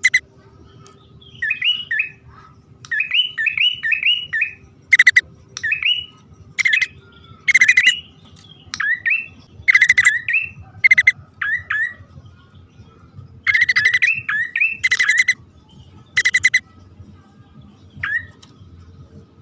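Prenjak (prinia) calls used as a trapping lure: clusters of sharp, harsh chattering notes alternate with quick upward-slurred chirps, repeated in bouts with short pauses between.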